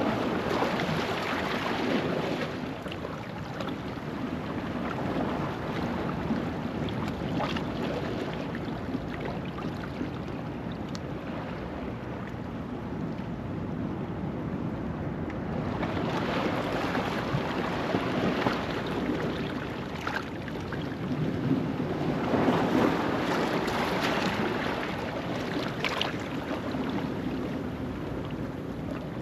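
Ocean waves washing over a rocky shoreline at low tide, a continuous rush that swells and fades. It is louder near the start and again twice in the second half, with a quieter lull in the middle.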